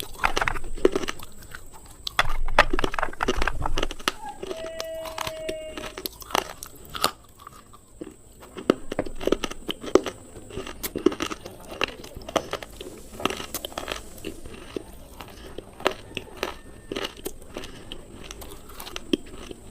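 Close-up biting and chewing of slate pencil pieces: a run of sharp, dry, irregular crunches and cracks, louder bites early on between grinding chews.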